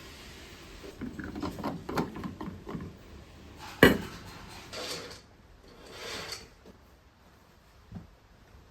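Dishes and cutlery clattering as they are handled, with one sharp clink about four seconds in, the loudest sound, then two short swishes and a last light knock near the end.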